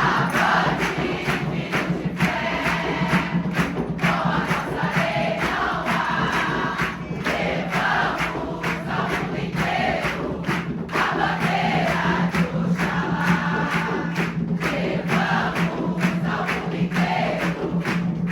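Many voices singing together in chorus over steady percussion beats.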